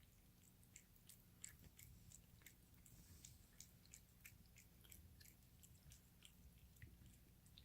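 A cat chewing, with faint, irregular crunching clicks several times a second.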